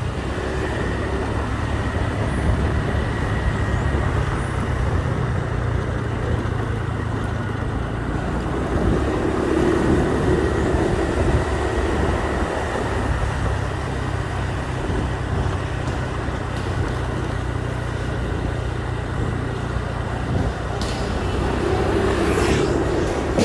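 Motorbike engine running steadily during a ride, with a continuous low hum under road and wind noise. It swells a little about ten seconds in and again near the end.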